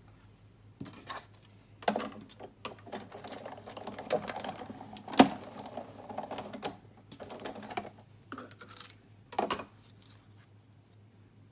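Big Shot manual die-cutting machine in use: a stack of plastic cutting plates with a framelit die is cranked through the rollers with a rattling grind, with clicks and clatter as the plates are handled. The loudest is a sharp click about five seconds in.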